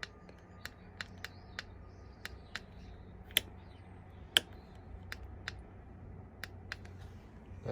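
Repeated sharp clicks of a motorcycle's handlebar switch being pressed over and over, about twenty in all with two louder ones near the middle, while the bike gives no response: its electrics are dead and it will not power on.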